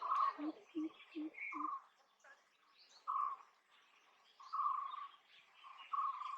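Greater coucal giving a short run of four deep, evenly spaced hoots in the first two seconds. Another bird repeats louder buzzy notes about every one and a half seconds, with faint high chirping behind.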